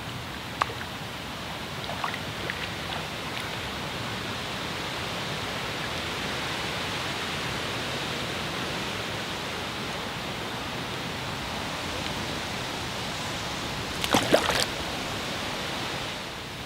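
Steady rushing outdoor noise, like moving water or wind, with a few faint clicks and a short cluster of sharp clicks and knocks about fourteen seconds in.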